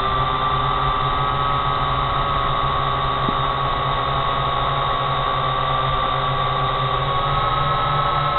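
Quadcopter drone motors and propellers whining steadily in flight, with a slight rise in pitch near the end.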